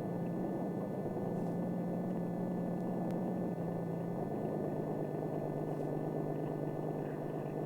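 Engine of an experimental reciprocating-propeller lift machine running steadily, its drone dropping slightly in pitch about four seconds in.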